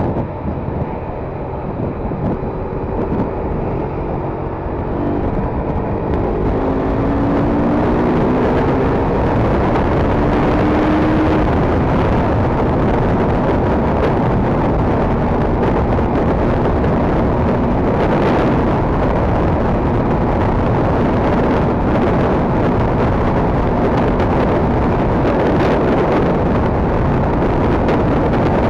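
KTM RC 390's single-cylinder engine pulling hard, its note climbing in pitch over the first several seconds, then a steady loud rush of wind and road noise as the motorcycle holds speed.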